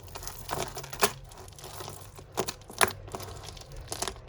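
Costume jewellery and loose beads clicking against each other as they are handled and sorted, with four sharp clicks over a soft crinkle of a plastic bag.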